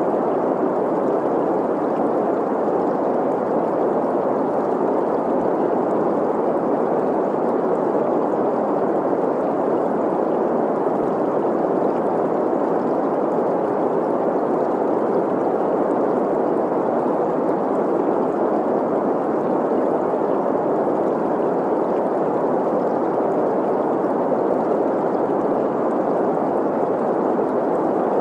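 Steady green noise, an even hiss concentrated in the middle of the range, blended with a running stream's gurgle.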